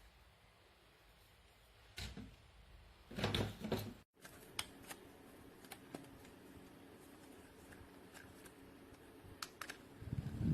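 Small plastic clicks and knocks as a JISULIFE handheld mini fan is handled, with a busier cluster about two to four seconds in and scattered light clicks after. Right at the end the fan's motor starts to run.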